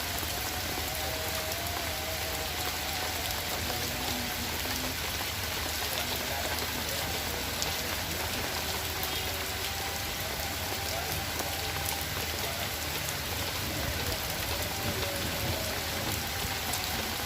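Steady rain falling, with a constant hiss and the patter of many individual drops.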